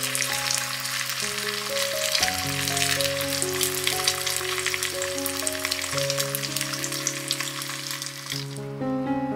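Bread slices frying in a small rectangular pan, with a dense, steady sizzle that cuts off shortly before the end. Soft background music with long held notes plays underneath.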